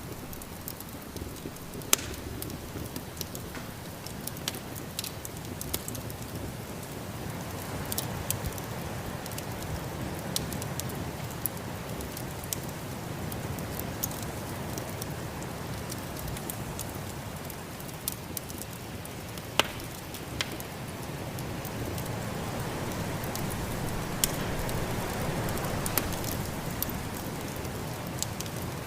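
Wood fire in a fireplace crackling, with many sharp, irregular pops, over a steady rushing snowstorm wind that swells louder twice.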